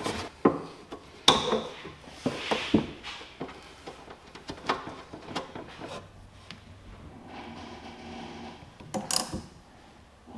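Hand work on the boat's cable run: scattered clicks, knocks and rubbing as a rubber edge protector and the cables are handled and fitted. A faint steady hum sounds for a couple of seconds near the end.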